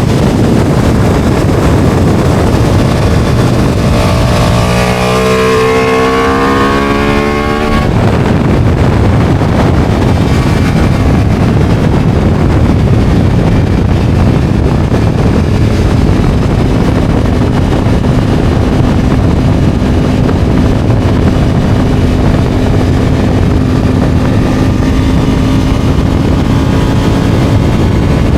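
Motorcycle engine under way with wind rushing over the microphone at speed. About four seconds in the engine note climbs as the bike accelerates, then cuts off abruptly near eight seconds; later the engine holds a steady note for about ten seconds.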